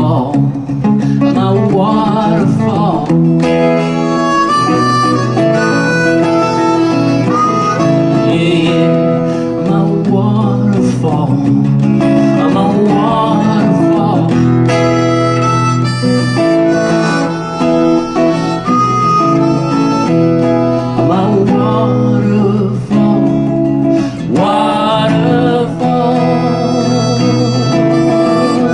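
Instrumental break in a folk song: a harmonica playing a melody over guitar accompaniment.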